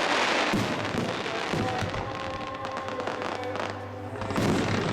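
Fireworks bursting and crackling, with a louder burst near the end, over music playing.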